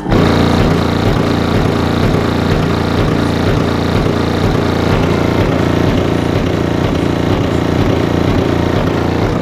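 Two URAL TT 15 subwoofers in a 195-litre ported box tuned to 27–28 Hz playing a deep bass track at very high output, starting suddenly and loud, with a rhythmic low pulse under a dense, distorted rattle.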